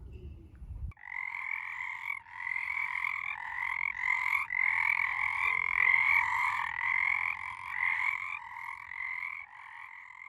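Frogs croaking in a dense, continuous chorus of rapid pulsed calls. It starts abruptly about a second in and grows fainter near the end.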